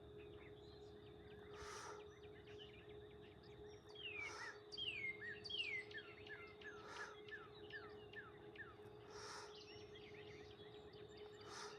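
Birds singing, with a run of short falling chirps about four to seven seconds in, over a faint steady hum. Soft breathy exhales come about every two and a half seconds, one with each dumbbell pull.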